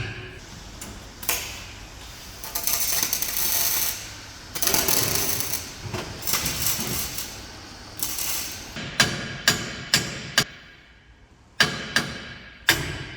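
Repair work on a truck's cargo body: two bursts of hissing, rasping noise, each a second or two long, then a run of sharp metallic knocks, about seven in the second half.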